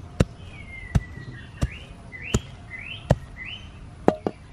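A bird calling: one falling whistle, then four short rising chirps. Under it runs a series of sharp clicks about every three-quarters of a second, louder than the bird.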